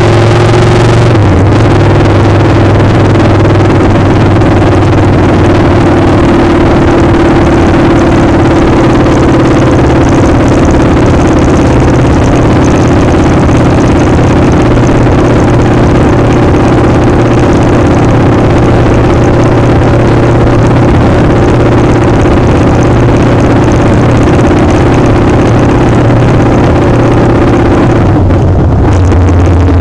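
Motorcycle engine running at a steady speed while riding, with heavy wind noise on the microphone. The engine note drops near the end.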